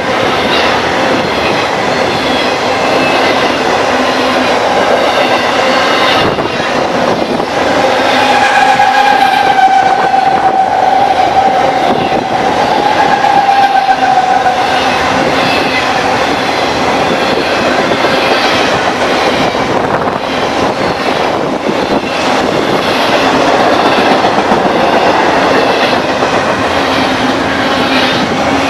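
Train passing on the mainline: a loud, steady rolling of steel wheels on rail, with a held tone lasting several seconds about a third of the way through.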